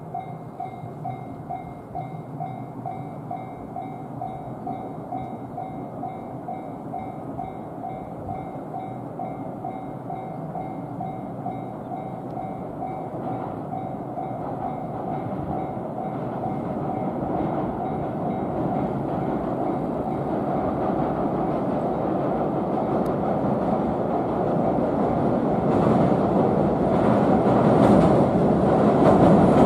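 Railway level-crossing alarm dinging in an even repeating pattern, then the rising rumble of a 115 series electric train approaching and running over a steel truss bridge, growing loud near the end with clacks from the wheels.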